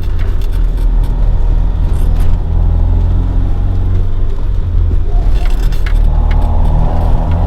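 Toyota AE86 Sprinter Trueno's swapped AE111 20-valve four-cylinder engine, on individual throttle bodies through a Fujitsubo Legalis R exhaust, running steadily while cruising. There are a few short clicks about two-thirds through, and the revs climb near the end.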